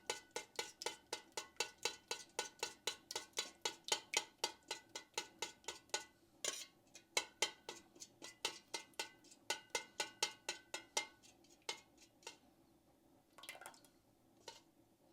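A spoon stirring a paste in a bowl, clicking against the sides in a quick, steady rhythm of about four clicks a second. After about eleven seconds it slows to a few scattered clicks.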